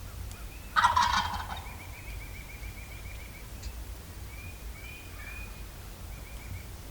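A wild turkey gobbler gobbling once, loud and brief, about a second in.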